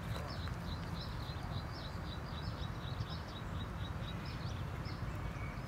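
A bird calling in a rapid, even series of short high chirps, about four a second, over a steady low rumble.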